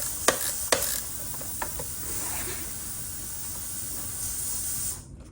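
A few light clicks and taps of hands working a motorcycle's front brake controls, mostly in the first couple of seconds, over a steady hiss that cuts off suddenly near the end.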